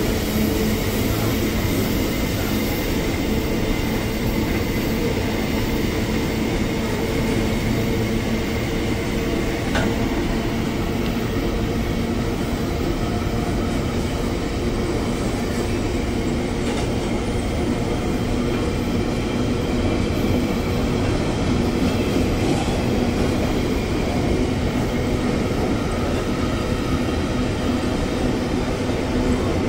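Empty iron-ore gondola wagons of a freight train rolling past: a steady rumble of steel wheels on the rails.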